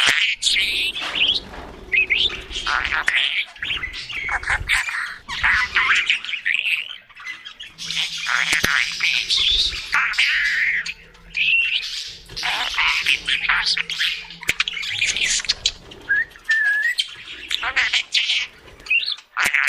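Budgerigars chattering and warbling continuously: a dense stream of rapid chirps, squawks and short whistles.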